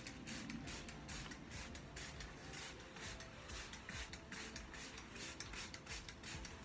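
Hand trigger spray bottle pumped over and over, about three to four short sprays a second, each a quick hiss, spraying waterproofing liquid onto a jacket.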